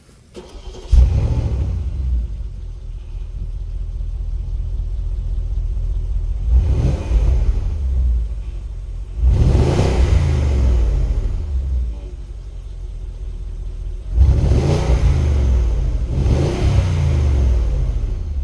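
2011 Porsche Cayenne Turbo's twin-turbo V8 starting from cold: a brief crank, then it catches about a second in with a loud flare and settles into a steady high idle. The engine speed rises and falls several times.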